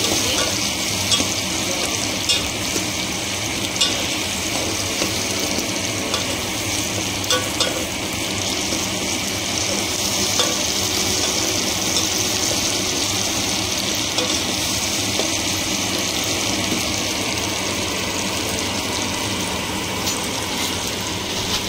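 Onion-tomato masala frying in oil in a pan, a steady sizzle with a few sharp clicks now and then.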